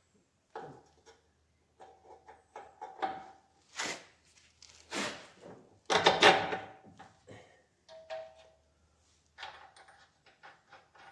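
Metal parts knocking and clinking as they are worked into place, a string of irregular strikes, several with a short metallic ring, the loudest about six seconds in.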